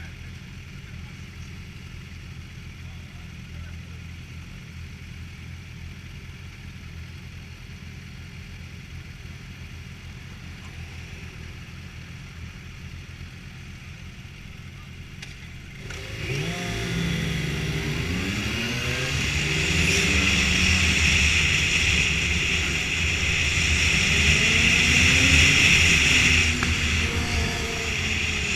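BMW motorcycle engine running steadily at low revs, then pulling away about halfway through. It revs up and down through the gears, with rising wind rush.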